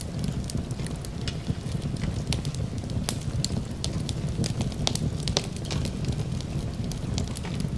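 Fireplace ambience: a wood fire crackling with frequent irregular sharp pops over a steady low rumble, mixed with rain.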